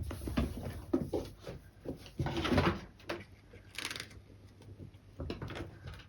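A cat batting a small toy ball about on the floor: a run of light knocks and taps, with a short rustling noise a little over two seconds in.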